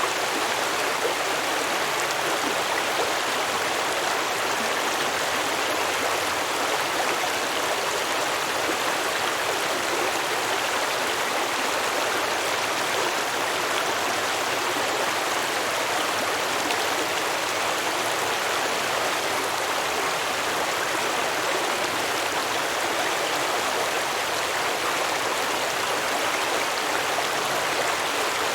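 Small stream flowing and babbling over rocks, a steady even rush of water.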